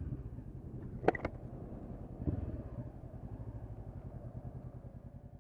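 Honda CB500X parallel-twin engine with Staintune exhaust running steadily at low revs. A sharp click about a second in and a knock about a second later, then the engine sound fades out at the end.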